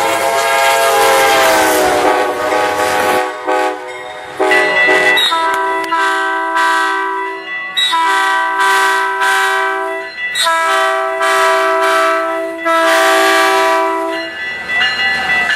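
Locomotive multi-chime air horn: a long blast of several tones sliding down in pitch, then five more blasts of one to two seconds each with short gaps between them.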